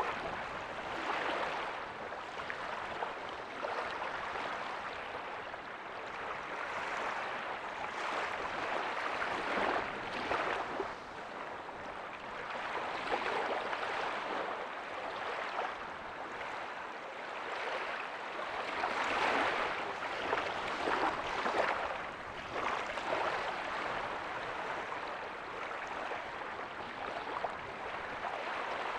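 Small ocean waves breaking softly on a beach: a steady wash of surf that swells and eases every few seconds.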